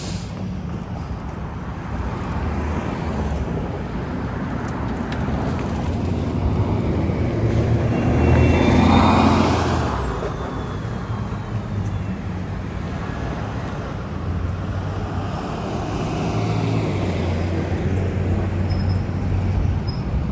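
Road traffic running steadily, with one vehicle passing close about nine seconds in, swelling and then fading.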